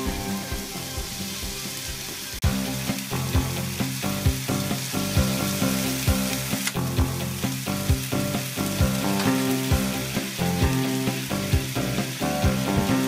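Chicken thigh pieces sizzling in hot oil in a frying pan, with sake just poured in so the liquid bubbles and spits around the meat. Background music with a steady beat plays along.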